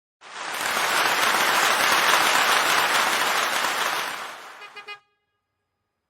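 Applause: a burst of clapping that comes in quickly, holds steady for about four seconds, then fades with a few brief pitched notes and cuts off suddenly.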